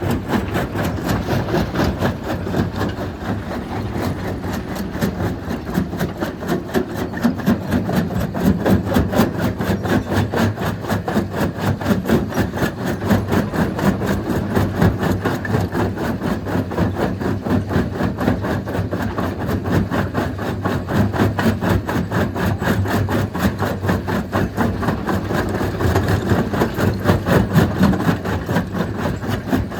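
Stone crushing machine running steadily at full power, its engine and crushing mechanism making a rapid, even pulsing din.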